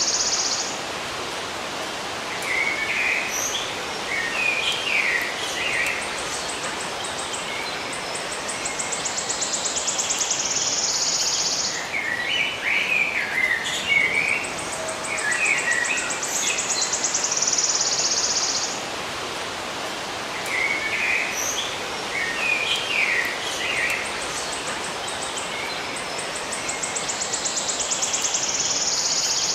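Nature soundscape of birds chirping in short clusters, alternating with a high pulsing insect buzz like a cricket or cicada, over a steady background hiss. The buzz and the chirps come back in the same order about every nine seconds, as in a loop.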